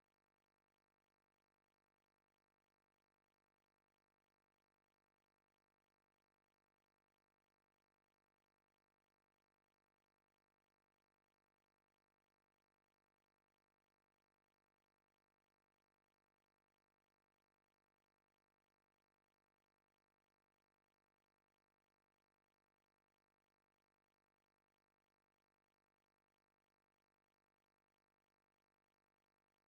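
Near silence: only a faint, unchanging electronic noise floor, with no sound events.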